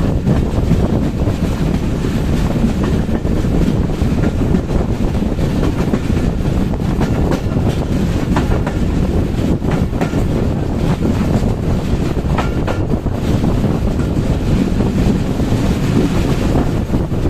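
Dhalarchar Express passenger train running along the track: a steady loud rumble of wheels on rail, with a few sharp clicks between about 8 and 13 seconds in.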